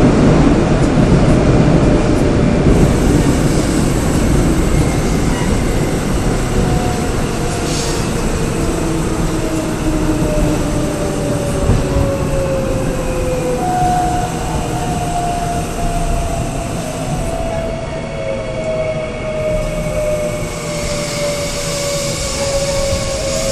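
Korail Seoul Subway Line 3 electric train running on the track, with a whine of several tones sliding steadily down in pitch as the train slows, typical of braking on the approach to a station.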